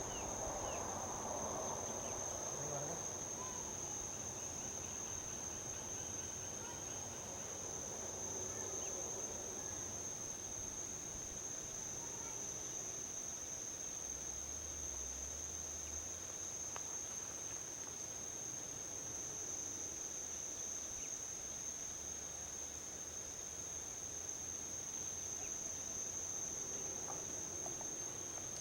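Steady, unbroken high-pitched trilling of insects, over a faint low rumble of distant highway traffic that is a little stronger in the first few seconds.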